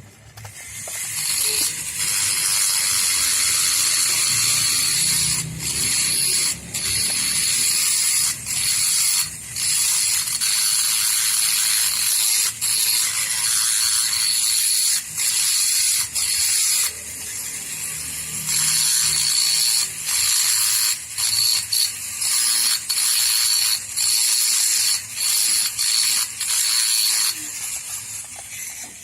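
High-speed rotary grinder working metal on a Vespa engine part, running with a steady high whine. It breaks off briefly many times along the way.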